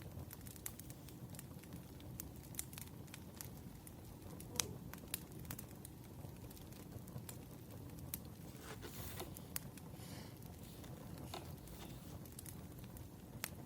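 Wood fire burning: a faint low rumble of the flames with irregular crackles and sharp pops of the logs, one pop louder than the rest about four and a half seconds in.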